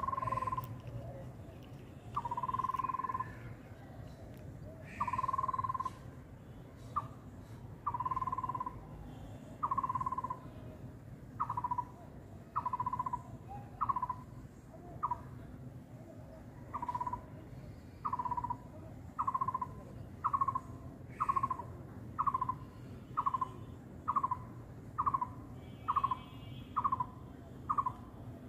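A bird calling: a series of clear whistled notes at one pitch, long and spaced at first, then shorter and quicker, about one a second, each dropping slightly at its end. A steady low background noise runs underneath.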